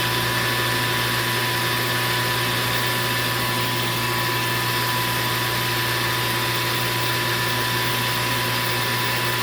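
Metal lathe running steadily while turning aluminium bar stock, a constant hum with a steady high whine over it.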